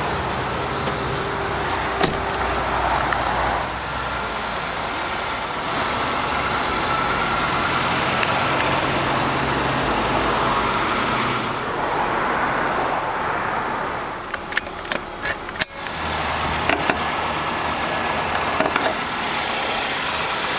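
A 2008 Mazda CX-7's 2.3-litre turbocharged inline four-cylinder engine idling steadily. A few sharp clicks near the end as the hood latch is worked.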